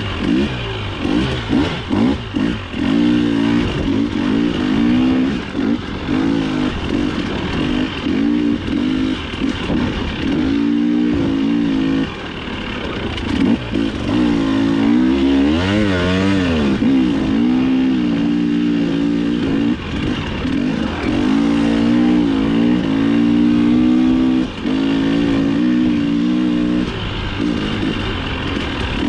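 Dirt bike engine revving up and down again and again while racing along woods singletrack, with its pitch climbing and falling as the rider works the throttle and gears.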